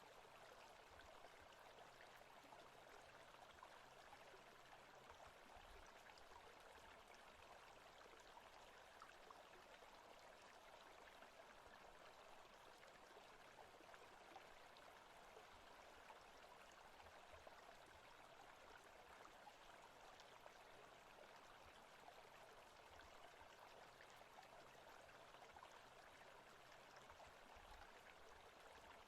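Faint forest ambience: the steady, even rush of a flowing stream.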